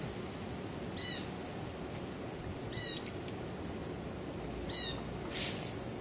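A bird calling three times, each call short and about two seconds apart, over a steady outdoor background hiss, with a brief burst of hiss just after the last call.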